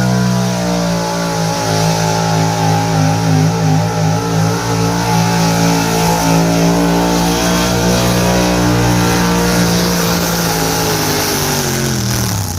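Gasoline pickup truck engine held at high revs under heavy load while pulling a weight-transfer sled, the revs wavering a little. Near the end the pitch drops and the engine winds down as the truck comes off the throttle at the end of the pull.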